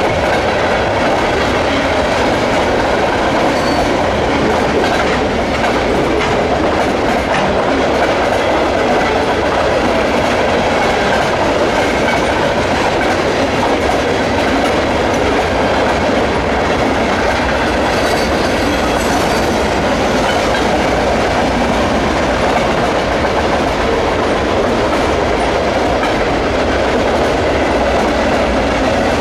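Freight cars of a long CN mixed freight train rolling steadily across a low river bridge: a constant rumble of steel wheels on rail, with wheels clicking over the rail joints.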